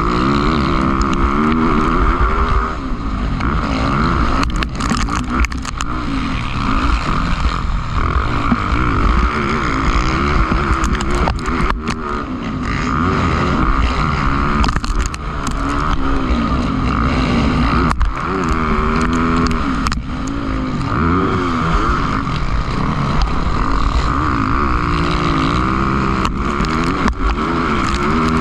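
Motocross bikes racing, their engines revving up and falling back again and again as the riders accelerate.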